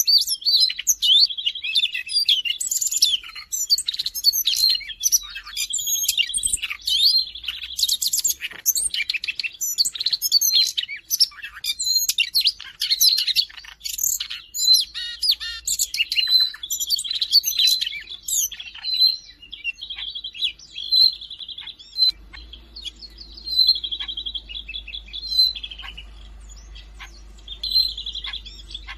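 Siberian rubythroat singing a long, varied song of fast warbled phrases and trills, dense for about the first twenty seconds, then sparser short trills and single notes.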